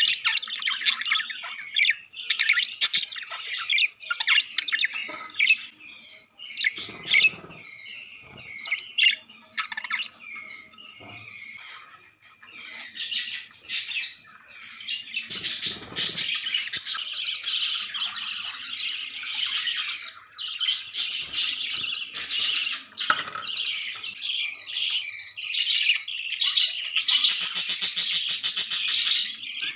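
Budgerigars chattering: a continuous stream of quick, high chirps, squawks and warbles that grows denser in the second half.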